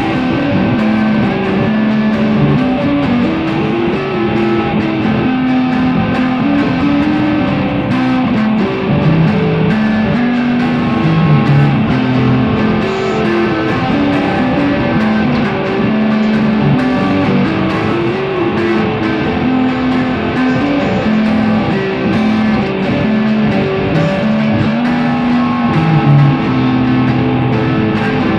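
Instrumental guitar music: a guitar-led band playing a steady passage, with bass underneath.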